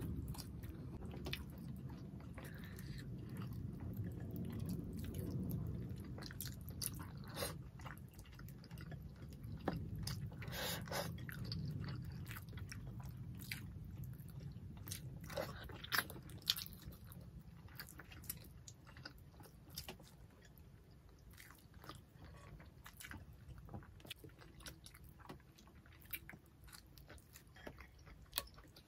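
Close-miked chewing and mouth sounds of people eating tilapia in coconut sauce and rice with their hands, with many short wet clicks and smacks scattered throughout. It grows fainter after the middle.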